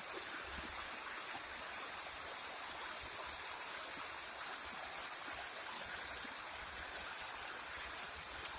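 Steady, even rush of flowing water, with a few faint ticks near the end.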